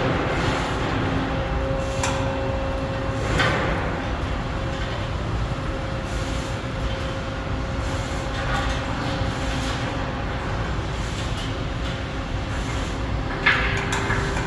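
Steady mechanical rumble with a faint hum, a louder swell about three and a half seconds in and a short sharp knock near the end.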